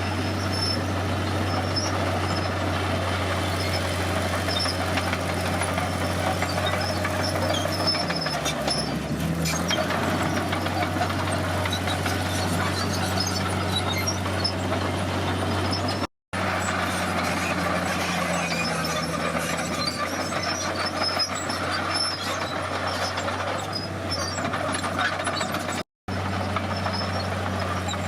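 Komatsu D50 bulldozer's diesel engine running steadily under work, dipping in pitch for a moment about eight seconds in.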